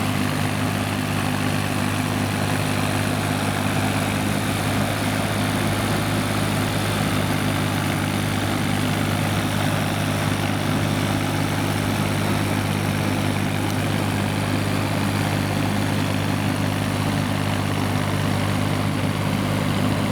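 Kubota M5000 tractor's diesel engine running steadily with a ZIPPO rotary tiller working behind it, a constant low engine drone over a steady noisy wash.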